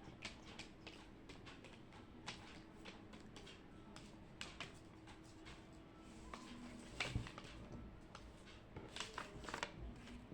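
Faint, irregular small clicks and taps of someone working at a desk in a quiet room. The loudest knock comes about seven seconds in, with a quick run of taps near the end.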